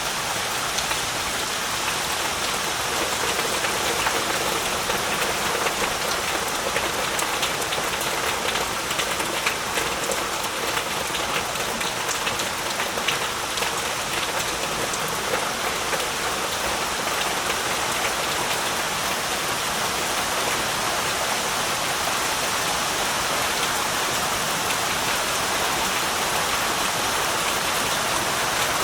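Heavy rain falling steadily, a dense even hiss of rain on surfaces with many small drop patters.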